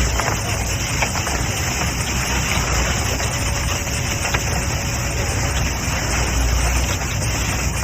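Wet concrete pouring steadily into a footing, a continuous rushing pour over the low hum of a running engine.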